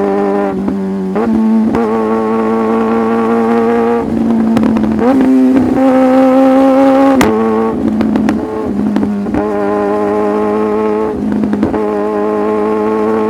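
Sportbike engine under way at fairly steady revs. Its pitch holds, then steps up and down several times as the throttle and gears change, with a sharp click about seven seconds in.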